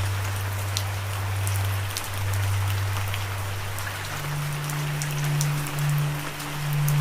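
Steady rain with scattered drop ticks, over a low held musical drone that steps up in pitch about four seconds in.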